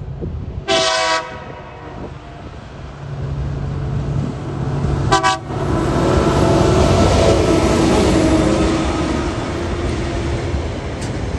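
TasRail TR-class diesel locomotives hauling a container freight train over a level crossing. The lead locomotive sounds two short horn toots for the crossing, about a second in and again about five seconds in. Then the locomotives' engines run past close by, loudest in the middle, with the wagons rolling behind.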